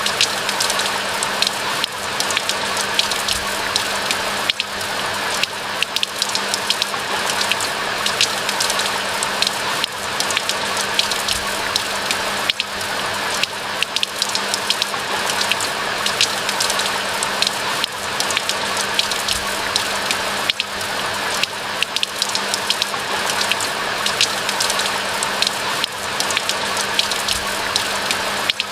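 Steady rain falling in a pine forest: a continuous hiss with a dense, irregular patter of individual drop ticks, and a faint steady low hum underneath.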